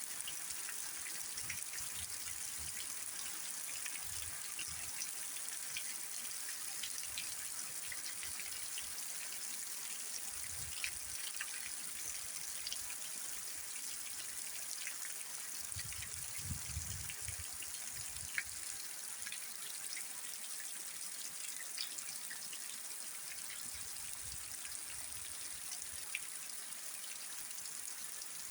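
Rain falling steadily, a constant hiss scattered with many small drop clicks. A few brief low rumbles come through, the strongest about halfway.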